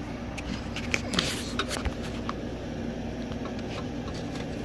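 Scattered light clicks, taps and scrapes of hand tools and metal exhaust parts being handled as the pipe is worked off its hanger, over a steady low hum.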